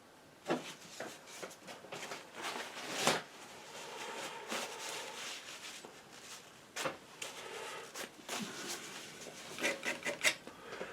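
Painting knife scraping and dabbing paint in short, irregular strokes, with sharp taps between them and a quick run of taps near the end.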